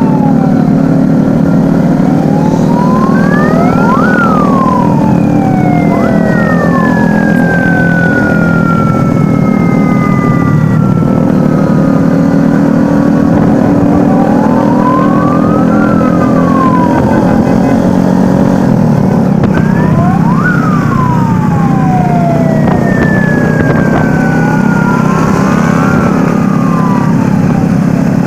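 Several sirens wailing, sweeping up and down in pitch every few seconds and overlapping one another, over a loud, steady drone of many vehicle engines running together.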